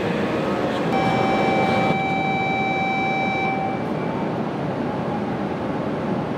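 Steady running noise of a Shinkansen train at a station platform. About a second in, a long, level electronic tone sounds over it for nearly three seconds, then stops.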